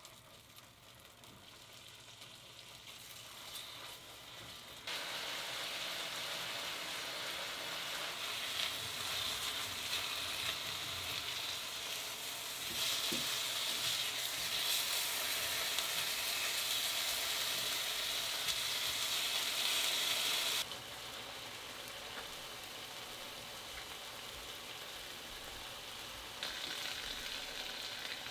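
Food frying and sizzling in a pan, a steady hiss of hot oil, most likely chicken breast for the wrap. The sizzle jumps louder about five seconds in and again near the middle, then drops back before the end.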